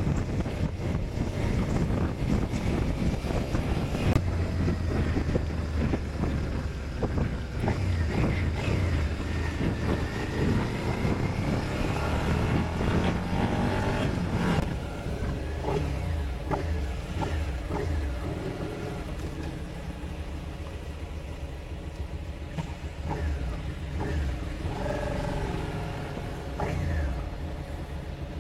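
Motorcycle engine running on the move, its note rising and falling with throttle and gear changes through the first half, then settling lower and quieter after about fifteen seconds.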